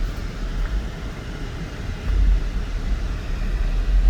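Low, steady rumble of the 2004 Lexus GX 470 SUV, with no other distinct events.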